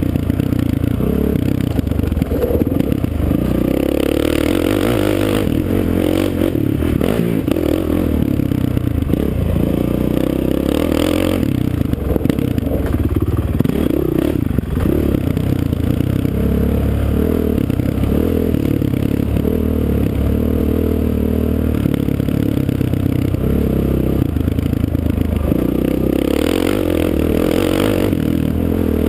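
Off-road motocross engine running hard throughout, its revs rising and falling continuously as it is ridden, heard from an onboard camera along with clatter and rushing noise.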